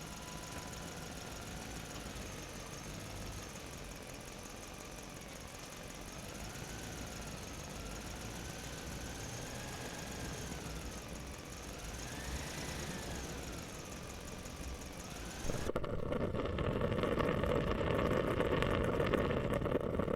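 A motor running steadily, its faint whine drifting slowly up and down in pitch. About sixteen seconds in it switches abruptly to a louder, rougher running noise.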